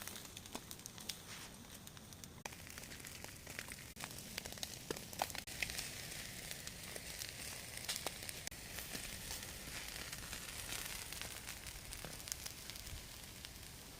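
Chicken legs sizzling as they cook: a steady hiss with scattered crackling pops, which grows denser a few seconds in.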